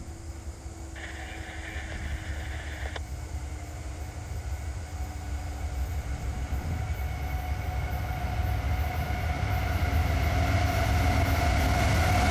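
CSX Q001 intermodal freight train's diesel locomotives approaching, the low engine rumble growing steadily louder as the train nears. A brief high tone sounds for about two seconds about a second in, and a steady whine builds up over the last half.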